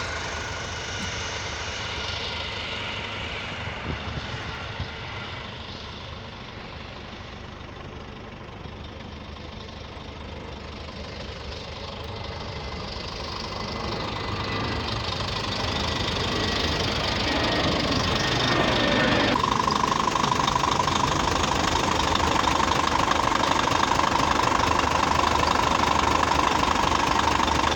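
Scania truck's diesel engine idling steadily, growing louder through the middle, with a steady whine joining in about two-thirds of the way through.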